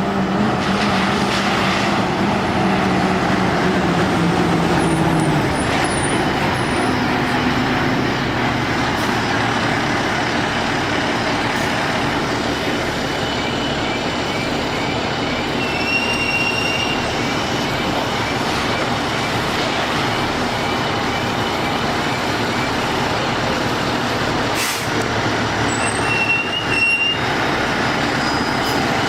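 Fire apparatus on the move, a heavy truck's engine and road noise running loud and steady. A low engine tone falls away over the first few seconds.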